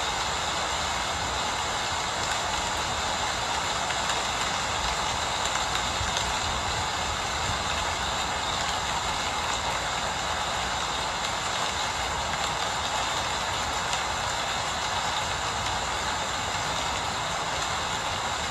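Steady rain falling, an even hiss that does not let up, with a low rumble beneath it.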